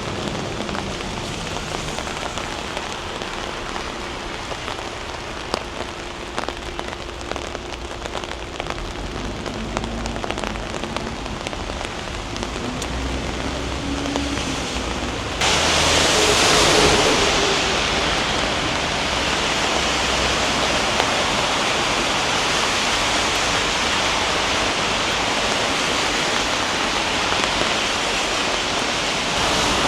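Steady rain falling, with faint drop ticks. About halfway through it turns abruptly to a louder, steady hiss of rain and water.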